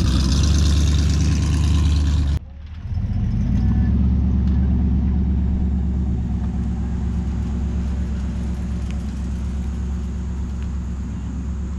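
Car engine running deep and low as a vehicle drives out past. The sound breaks off abruptly about two and a half seconds in, then engine sound resumes and slowly fades away.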